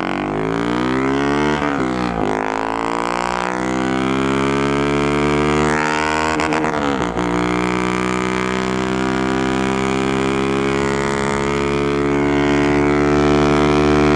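Single-cylinder engine of a Honda Fan 150 motorcycle, running through a bare straight pipe, revved up and held at high revs. The revs dip briefly about two seconds in and again around seven seconds, then climb back and hold steady.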